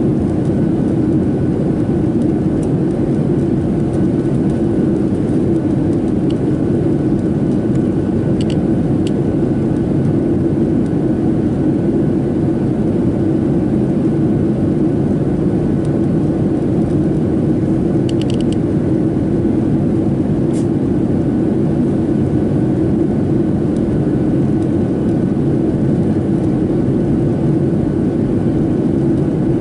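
Steady cabin noise inside a Boeing 737-700 on descent: loud, even rushing of air and engine noise, with a faint thin steady tone. A few light clicks come about a third and two thirds of the way through.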